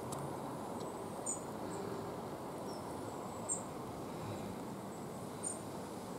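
Outdoor ambience: a steady low background hiss and rumble with a few short, high-pitched chirps from small birds scattered through it.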